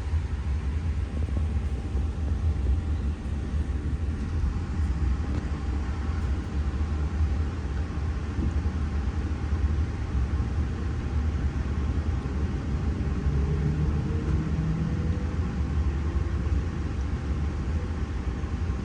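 Steady low rumble of a Sydney Trains V set double-deck intercity electric train running on the track, with a faint rising tone about thirteen seconds in.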